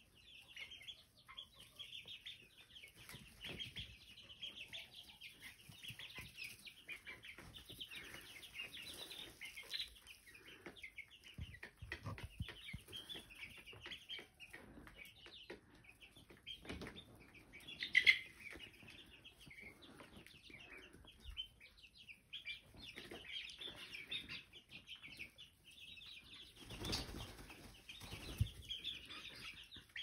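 A pet bird chirping and chattering almost without pause, with scattered soft knocks and rustles. One much louder call comes a little past halfway.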